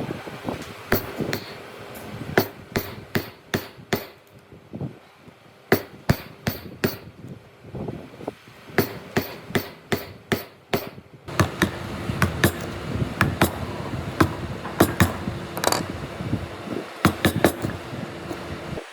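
Hammer blows on wood in hand joinery work: a long series of sharp, irregular knocks, often two or three a second and sometimes in quick clusters. Behind them, a steady background noise grows louder about eleven seconds in.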